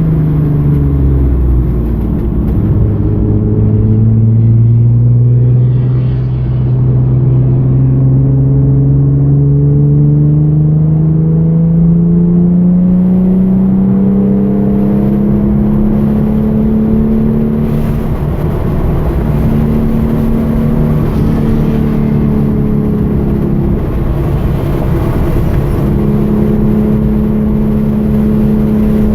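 The 3.8-litre V6 of a 2013 Hyundai Genesis Coupe track car running under load. Its pitch drops at the start as it slows, then climbs steadily through a long pull of about fifteen seconds, and then holds high with a few brief dips.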